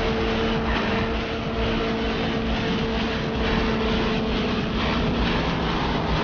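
Sport bike engine, a 2009 Yamaha R6S, running at high speed and holding a steady, high engine note, under heavy wind rush over the microphone.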